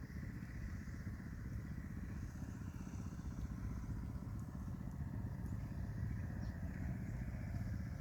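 A steady low engine drone, like a small motor running at an even speed.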